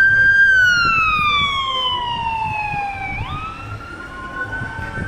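Emergency vehicle siren wailing: a single tone that falls slowly over about three seconds, climbs back quickly and holds high, then starts falling again near the end, over low traffic rumble.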